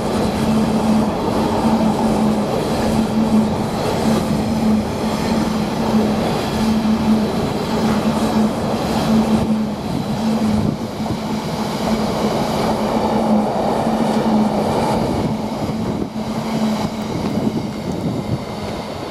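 A long freight train hauled by a Class 66 diesel locomotive passes at speed: its wagons give a steady loud rumble, with a low hum that pulses at an even rhythm.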